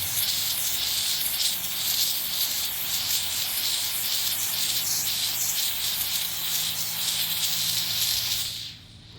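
Steam cleaner jetting steam onto grime: a loud, steady hiss over a low hum, cut off sharply near the end.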